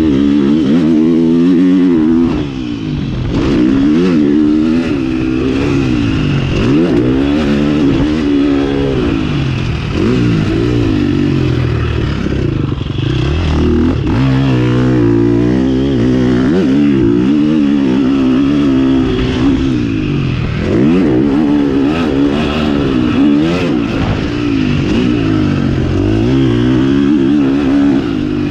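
2020 KTM 350 SX-F's single-cylinder four-stroke engine revving hard and easing off again and again as the throttle is opened and closed, its pitch climbing and dropping every second or two.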